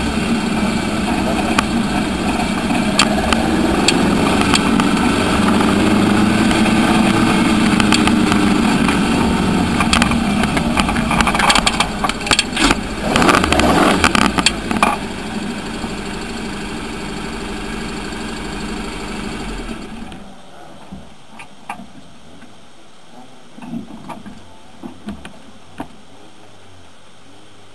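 Corzuki rally car's Suzuki Swift GTi twin-cam four-cylinder engine running at low revs as the car rolls slowly, with a spell of sharp clicks and knocks around the middle. About 20 seconds in the engine stops, leaving only faint background with a few scattered knocks.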